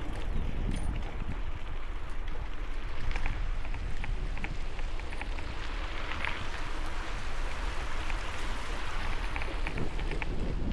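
Strong wind blowing across the helmet-mounted camera microphone while cycling: a steady rushing noise with a heavy low rumble and a few faint ticks.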